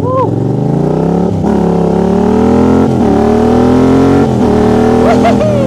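Yamaha XSR700's 689 cc parallel-twin engine accelerating hard through the gears. The pitch climbs steadily, drops briefly at three upshifts about a second and a half apart, and climbs again after each one.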